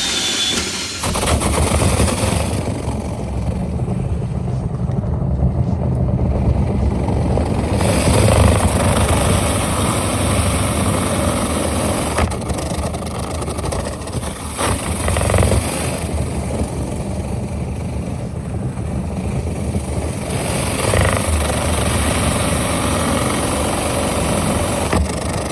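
Power drill spinning a rod-mounted rotary brush inside a dryer vent duct: a steady, loud rumble with scraping, its upper range coming and going as the brush works along the duct.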